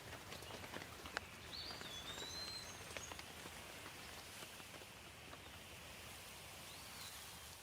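Steady light rain with scattered drops hitting close by, and a bird giving short whistled calls about a second and a half in and again near the end.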